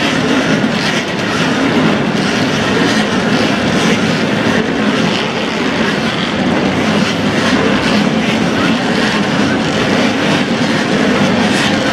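Vintage racing motorcycle engines running on a circuit, several together as a steady, dense mix of exhaust noise with no single machine standing out.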